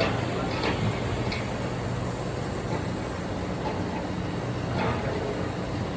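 Steady low machinery hum, with a few light knocks about a second in and again about five seconds in.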